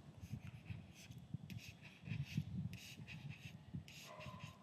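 Faint scratching of a pen writing, in a series of short strokes, as a resistor circuit is drawn.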